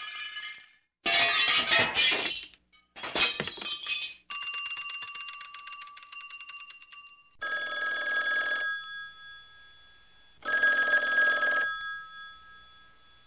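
A few short crashing bursts, then a bell ringing in a fast, even trill for about three seconds, followed by two separate ring bursts of about a second each, like a telephone ringing twice.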